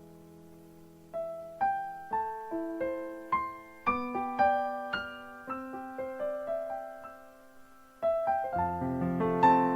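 Slow, gentle piano music. Single notes are picked out one at a time, each ringing and fading, and fuller chords with bass notes come in near the end.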